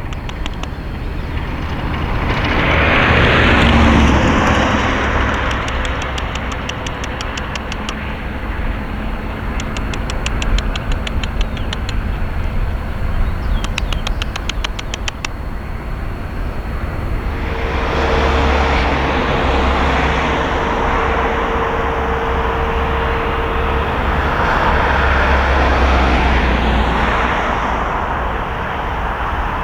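Jet airliner engine noise heard from the airport perimeter: a steady rumble and hiss that swells briefly a few seconds in, then builds again past the middle with a steady whine, and stays loud through most of the second half.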